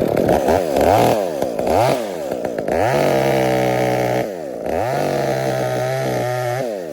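Chainsaw engine revved up and down several times in quick succession, then held at high speed twice for a second or more each time, with a brief drop between.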